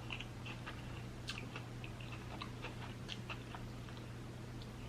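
Close-miked chewing of a cheesesteak sandwich: soft, irregular wet mouth clicks and smacks over a faint steady low hum.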